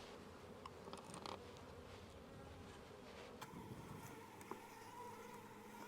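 Faint, steady buzzing of a honeybee colony inside a wooden observation hive, with a few soft ticks.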